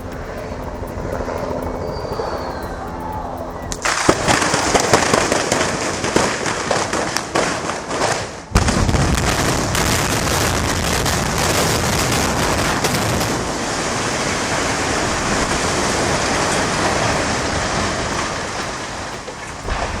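Demolition blast: a steady low engine hum gives way, about 4 seconds in, to a rapid string of sharp explosive cracks. A long, loud, dense rumble follows until near the end.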